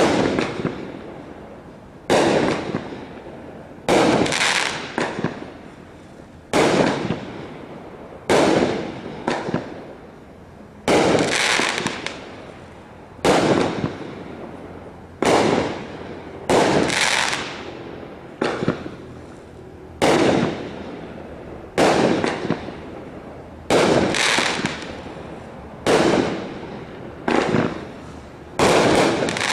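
Fireworks cake (multi-shot repeater) firing a steady sequence of aerial shots: a sharp bang roughly every one and a half seconds, about twenty in all, each followed by a fading tail.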